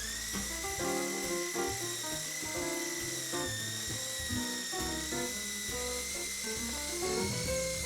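Electric drill running steadily with a high whine, likely driving a wire brush to scour rust off a cast-iron takoyaki plate, under background music.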